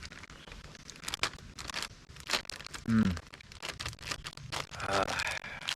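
Plastic MRE packaging crinkling and tearing in a run of sharp crackles, with two short hums of the voice about three and five seconds in.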